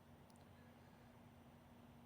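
Near silence: a faint steady hum and hiss from the recording's noise floor, with a couple of very faint ticks about a third of a second in.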